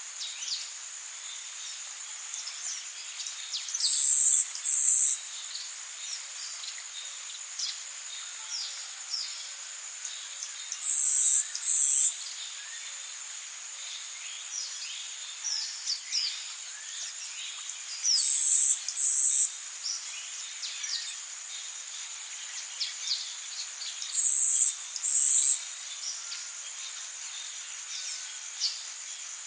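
Tropical rainforest ambience: a steady hiss of rain under many brief falling bird chirps, with a loud, high-pitched double insect buzz repeating about every seven seconds.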